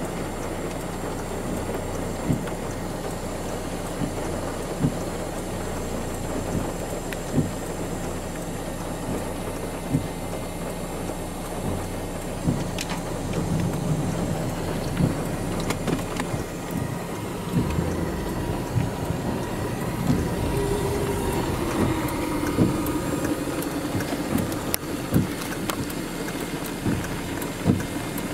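Steady rain falling on a vehicle during a thunderstorm, with a short knock about every two and a half seconds. A low rumble grows louder about halfway through.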